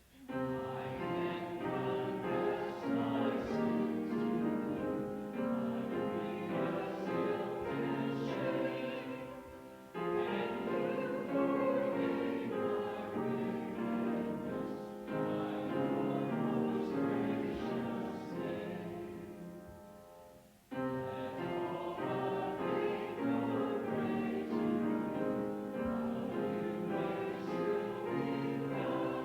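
A church congregation singing a psalm setting together with instrumental accompaniment, in sustained phrases with brief breaths between them about ten and twenty seconds in.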